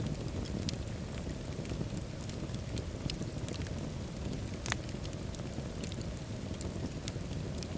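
Wood fire burning in a fireplace: a steady low rumble of flames with frequent sharp crackles and pops, one louder pop a little past the middle.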